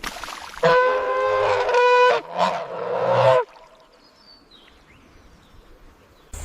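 An animal gives two loud, pitched calls, a longer one of about a second and a half and then a shorter one. After that it goes quiet, with only faint high chirps.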